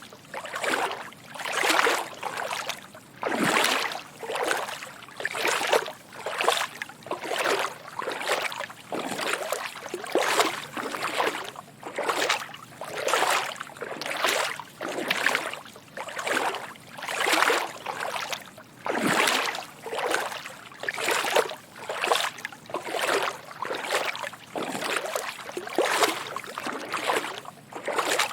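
Footsteps wading through shallow water. Each step is a soft slosh, repeating at a steady walking pace of a little over one step a second.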